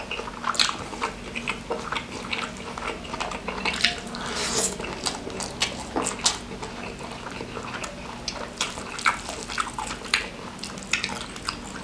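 Close-miked wet chewing and lip-smacking of a person eating a mouthful of rice and beef, with many irregular short clicks and smacks and no talking.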